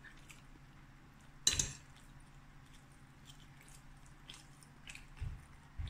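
A person chewing a mouthful of rice, with light clicks of a fork and spoon against a china plate; one sharper click about one and a half seconds in.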